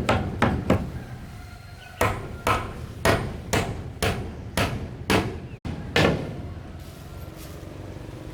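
Hammer blows: three quick strikes at the start, then after a short pause a steady run of about nine strikes, roughly two a second, each with a short ring.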